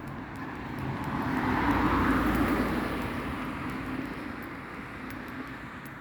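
A vehicle passing by: a broad rushing noise that swells to a peak about two seconds in and then fades away.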